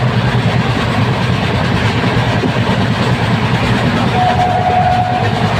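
Train running, heard from aboard: a steady loud rumble and rush of rolling noise. About four seconds in, a thin steady high whine lasts about a second.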